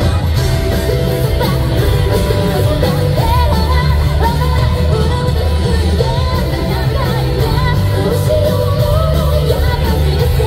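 Live rock band playing loudly through a concert hall's PA, with heavy drums and bass under guitars and a wavering high melody line on top.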